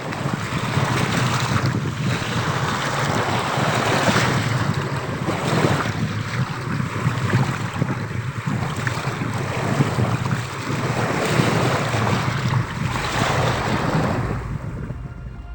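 A loud, steady rushing noise that swells and ebbs, fading in at the start and out near the end, like surging water or strong wind.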